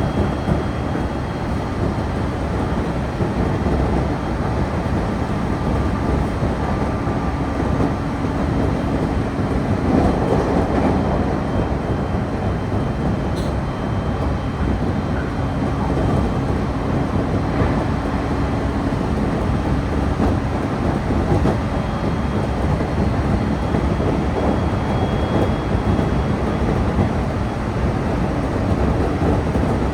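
Passenger train running at speed, heard from inside the carriage: a steady rumble of wheels on rails, with a faint hum that fades in and out.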